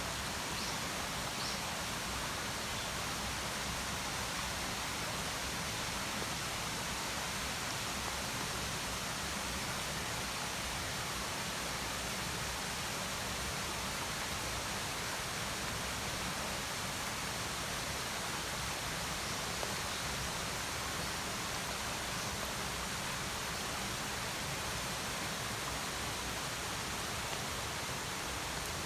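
Steady rain falling, an even hiss that does not change, with a few faint ticks here and there.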